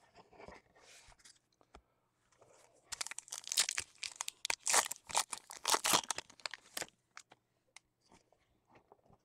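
A foil trading-card pack wrapper being torn open and crinkled, a dense run of crackling rips and rustles in the middle of the stretch.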